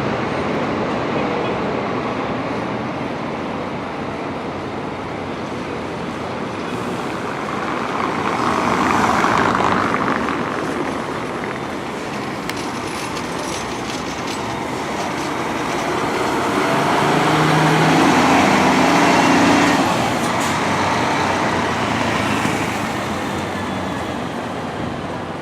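Road traffic with heavy vehicles such as buses going by, swelling as one passes about nine seconds in and again, louder, around eighteen seconds in.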